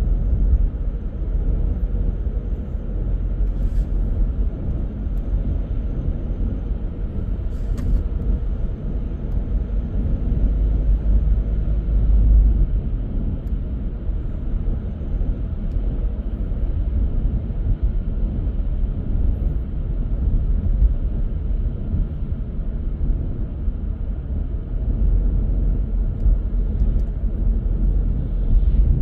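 A car driving along steadily: a continuous low rumble of tyres on the road and the engine, with a couple of faint clicks.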